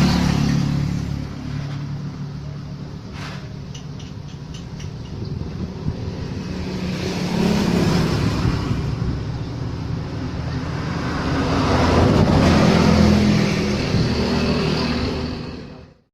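A motor running with a steady low hum and noise over it, swelling louder twice, about halfway and again near the end, then cutting off abruptly.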